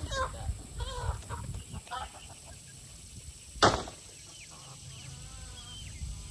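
Hens clucking and squawking for the first two seconds, then a single sharp thump about three and a half seconds in, followed by faint, thin high squawks.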